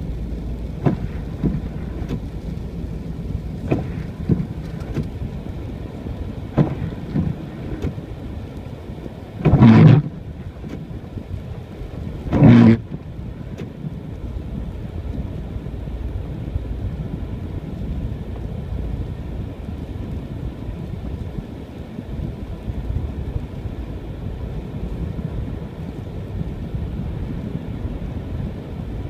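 Car driving on snow-covered roads: a steady low rumble of engine and tyres with a hiss. There are a few faint clicks early on, and two loud, rough bursts of noise about three seconds apart, each lasting about half a second.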